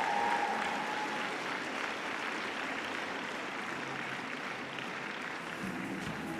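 Audience applauding after a vaulting routine as its music fades out in the first second.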